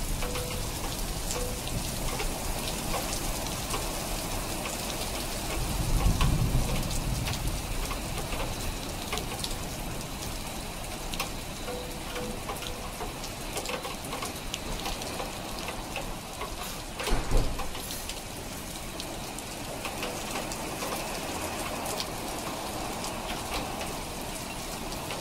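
Steady rain falling, with individual drops ticking on a hard surface close by. There is a low rumble about six seconds in and a short, loud low thump about two-thirds of the way through.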